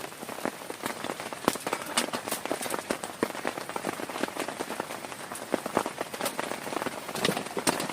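Heavy rain falling steadily on a tent, a dense hiss of rain with many sharp, irregular hits of single drops.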